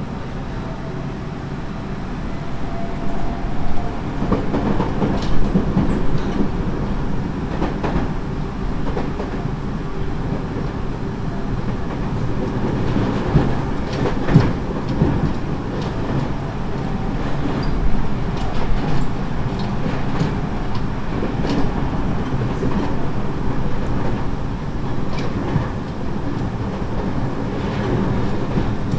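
Tobu 30000 series electric commuter train running between stations, heard from inside the car: a steady rumble of wheels on rail, broken by irregular clicks and thumps over rail joints.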